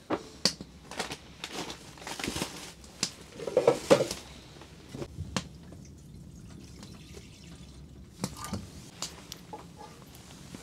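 Water splashing and dripping as hands and face are washed: irregular splashes, busiest in the first four seconds, with a few more drips near the end.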